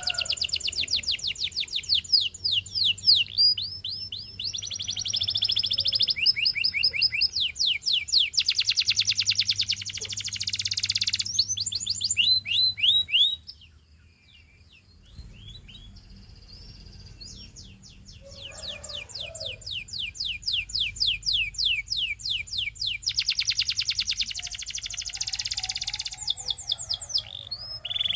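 Domestic canary singing long rolling trills of fast, repeated rising notes in phrases that change from one note type to the next. The song pauses for about two seconds near the middle, then picks up again.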